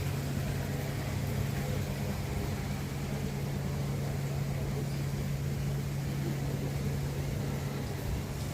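Steady low mechanical hum with a constant low tone, like an engine running at idle.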